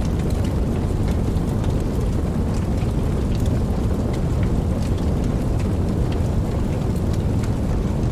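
Steady rain falling, over a continuous deep low rumble, with scattered sharp ticks of individual drops.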